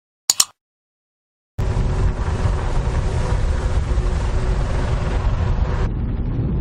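Two short clicks, then about a second and a half in a loud, steady rumble of wind buffeting the microphone starts suddenly, with a motorboat's engine humming under it.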